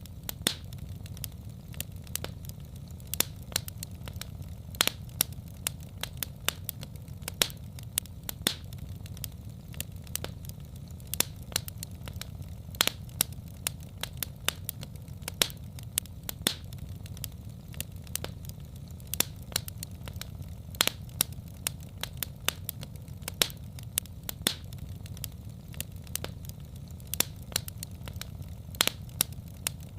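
Wood fire burning in a fireplace: frequent irregular sharp crackles and pops over a steady low rumble of flame.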